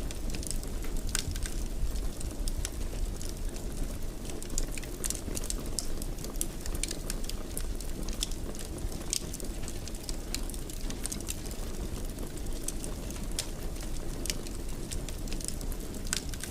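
Wood fire crackling in a fireplace: a steady low rumble of burning with frequent small, irregular pops and crackles.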